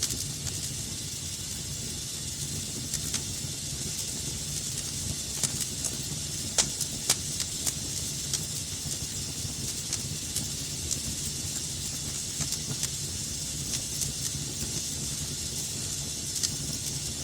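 Fire in a fireplace crackling: a steady hiss with irregular pops and snaps, and a couple of louder pops about seven seconds in.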